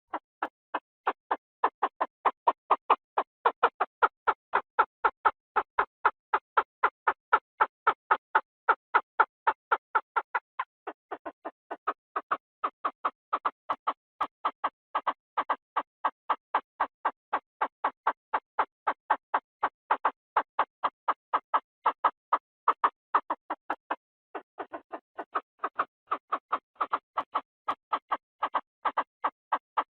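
Chinese francolin call played as a lure recording: a long run of short, evenly spaced notes, about three a second, with brief softer dips about 11 and 24 seconds in.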